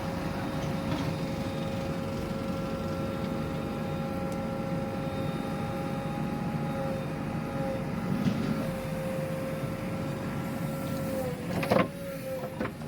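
Diesel engine of an earthmoving machine running steadily, with a held whine that sags slightly in pitch late on. A sharp knock sounds shortly before the end.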